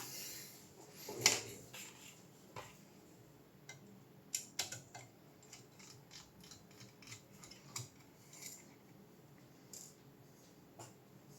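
Irregular small clicks and taps of hand work on a graphics card being taken apart, with one louder click about a second in.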